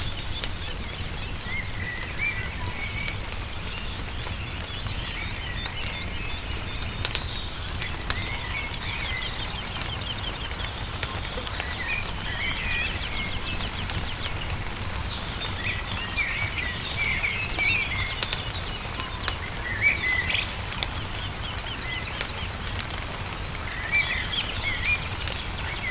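Wood fire crackling with scattered small pops, under songbirds chirping and trilling in short phrases, over a steady low rumble.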